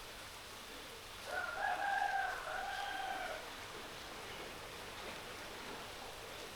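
A rooster crowing once, a call of about two seconds starting just over a second in, over a steady hiss of falling rain.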